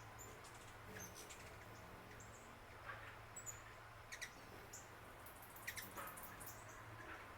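Faint, scattered high-pitched bird chirps, single short notes every second or so, over a quiet steady low hum.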